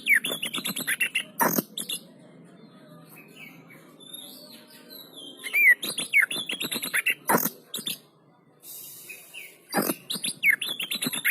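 Oriental magpie-robin (kacer, the 'poci' variety) singing in bursts of rapid whistled notes and quick glides, mixed with loud harsh rasping notes, with short quieter pauses between the bursts.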